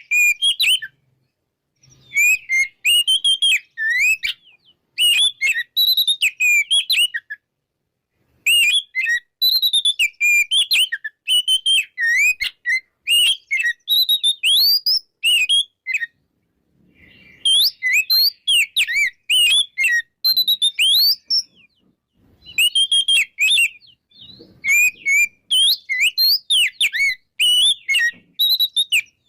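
Oriental magpie-robin in full, open song: phrases of varied clear whistles and quick gliding chirps, each lasting a second to several seconds, broken by short pauses.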